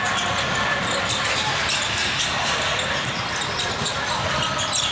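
Basketball game in a gym: a basketball bouncing on the court among repeated short sharp knocks and clicks, over steady hall noise with voices in the background.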